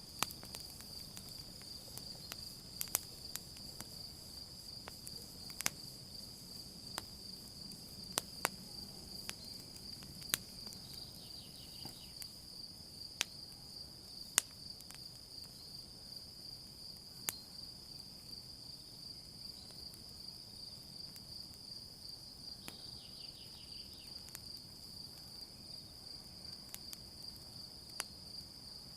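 Campfire crackling, with sharp pops at irregular intervals and a soft low rumble, under a steady high chirring of crickets.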